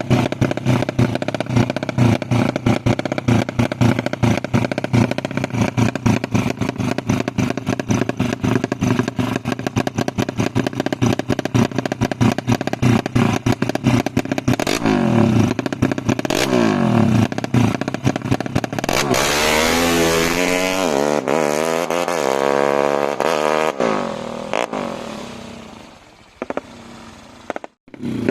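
Tuned Yamaha Jupiter 130 cc single-cylinder four-stroke motorcycle engine idling with a choppy, rapid firing beat, blipped twice. About two-thirds in it revs hard, with the pitch rising and falling, then the revs die away near the end.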